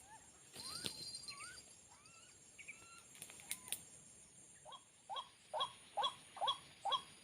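Scattered rising chirps, then a white-breasted waterhen calling: a run of short repeated notes, about two a second, starting about two-thirds of the way in.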